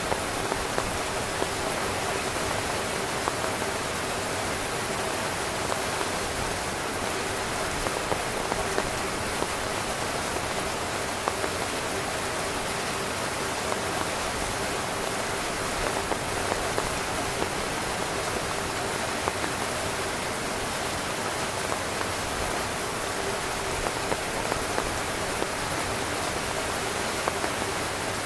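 Heavy rain drumming on tent fabric: a dense, steady hiss with many sharp drop ticks.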